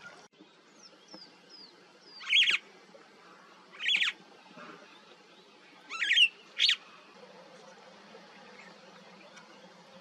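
A bird calling: four sharp, high-pitched calls, the last two close together, after a few faint short chirps.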